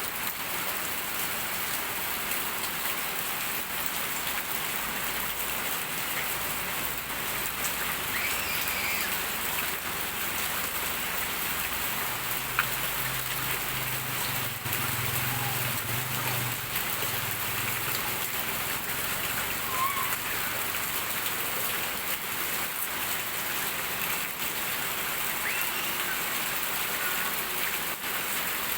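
Heavy rain falling steadily, with scattered sharp drop ticks and a low hum for a few seconds about midway.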